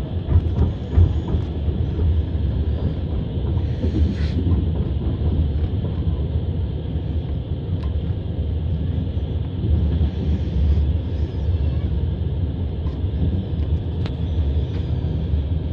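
Passenger train running along the track, heard from inside the carriage: a steady low rumble with the wheels knocking, a few louder knocks about a second in.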